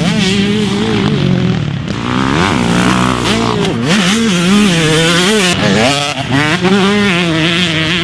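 Two-stroke Yamaha YZ motocross bike with an FMF exhaust being ridden hard. The engine note rises and falls again and again as the throttle is worked and the gears change, with a quick swoop of pitch a few seconds in.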